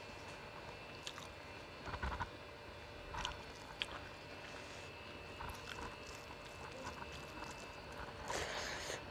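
Faint eating sounds from a person eating rice and curry with the hand: chewing and soft mouth clicks scattered through, with a louder, breathy burst of noise near the end as a handful goes into the mouth.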